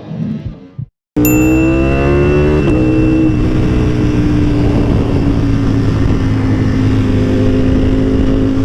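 A short tail of music, a moment of silence, then a motorcycle engine cuts in loud: its revs fall over the first second or two, then it runs at a steady speed.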